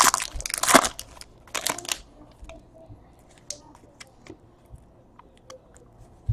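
Foil wrapper of a baseball card pack crinkling and tearing as it is opened, for about the first two seconds, followed by scattered light ticks and rustles.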